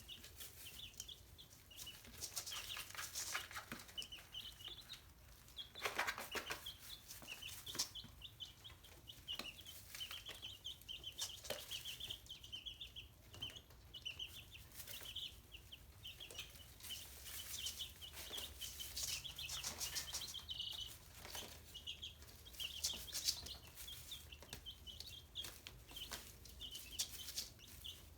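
Chicks peeping continuously in rapid short high notes, with scattered rustling and clicking from the birds moving about.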